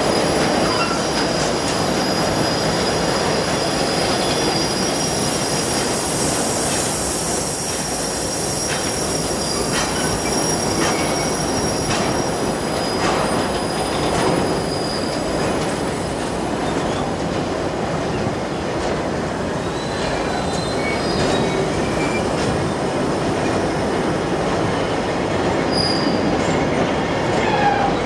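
A freight train of empty flat wagons rolling past close by: a steady rumble of steel wheels on rail. A thin, high wheel squeal runs over it and fades out about halfway through. A few clicks from wheels over rail joints come around the middle.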